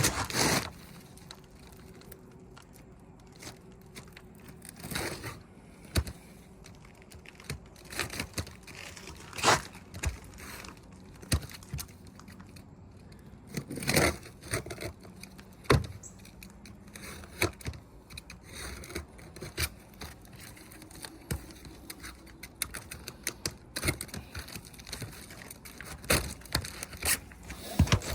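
A new asphalt roof shingle being cut and handled: irregular scraping and tearing with scattered sharp knocks and clicks.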